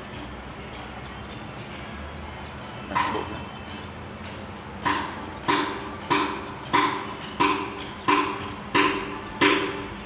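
Metal striking metal: one ringing tap about three seconds in, then a steady run of about eight ringing taps, roughly one and a half a second, each leaving a short metallic ring.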